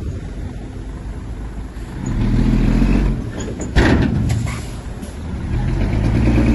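Heavy diesel engine of earthmoving machinery working under load. It rises about two seconds in, eases off and picks up again. A sudden sharp noise comes just before the four-second mark.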